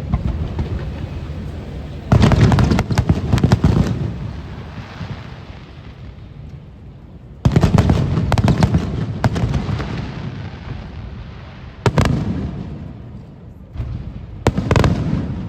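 Aerial fireworks bursting in volleys: a rapid cluster of bangs about two seconds in, another just before halfway, a single sharp bang later, and a short cluster near the end. Each is followed by a low rumble that fades away.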